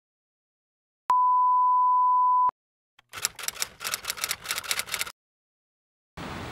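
A steady electronic beep, one pitch held for about a second and a half. Then a quick run of typewriter key clacks lasting about two seconds, as a title is typed out. A steady rushing noise comes in near the end.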